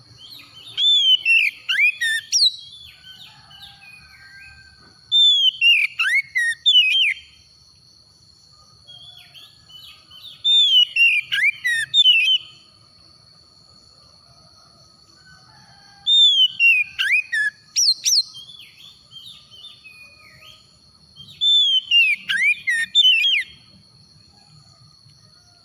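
Oriental magpie-robin (kacer) singing: five phrases of quick, sweeping whistled notes, each about two seconds long, with pauses of a few seconds between them. A faint steady high tone runs underneath.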